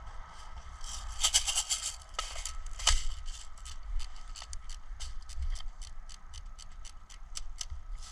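A run of sharp clicks and crackles: a dense cluster about a second in, then fairly even ticks, about four a second, over a faint steady high tone.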